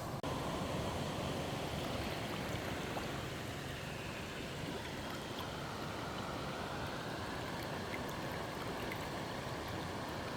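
Steady rushing of fast-flowing stream water below a dam.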